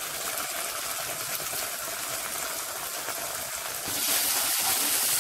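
Red chilli paste sizzling in hot oil with chopped garlic and ginger in a kadai. The sizzling gets louder about four seconds in, as a wooden spatula starts stirring the paste.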